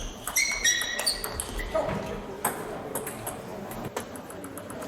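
Table tennis ball clicking off the rackets and the table in a rally, sharp irregular ticks. A few short high squeaks in the first second or so, typical of shoes on the court floor.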